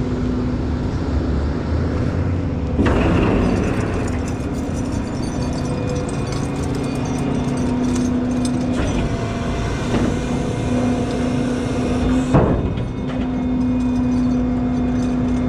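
Hino rollback tow truck's diesel engine running steadily, with rattling over it, a loud clatter about three seconds in and a sharp knock about twelve seconds in.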